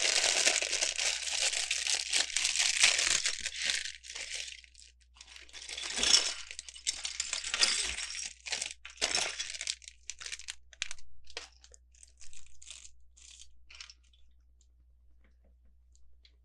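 Plastic LEGO parts bag being torn open and crinkled, a long continuous crackle for about four seconds, another spell about six seconds in, then short scattered crinkles that die away.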